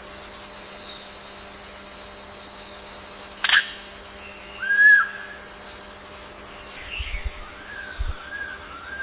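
A bird gives a short, arched whistled note about five seconds in, then softer wavering whistles near the end, over a steady high-pitched drone and a low hum. A sharp click comes about three and a half seconds in.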